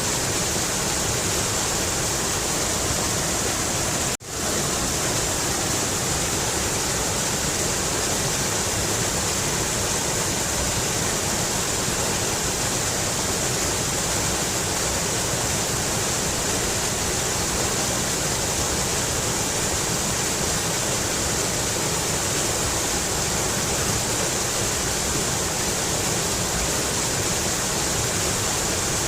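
Mountain river water rushing steadily, an even hiss strongest in the high pitches. The sound cuts out for a split second about four seconds in and resumes at once.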